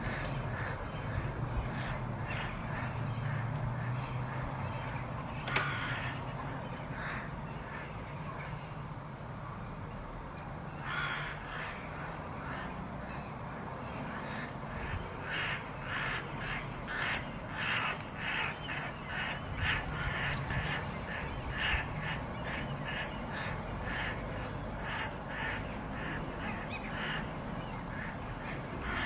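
A bird giving short, harsh, repeated calls over steady background noise. The calls are scattered at first and come about two or three a second from about halfway through.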